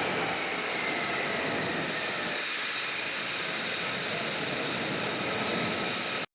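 F-35 fighter jet's engine noise, a steady rush with a high whine that slowly falls in pitch, cutting off suddenly near the end.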